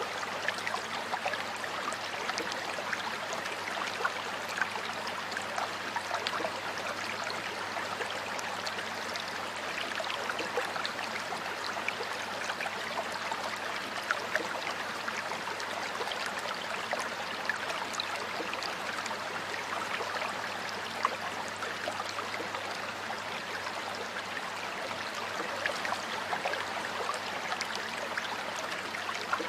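Stream water flowing steadily over rocks, a continuous babbling rush with many small splashes and drips through it.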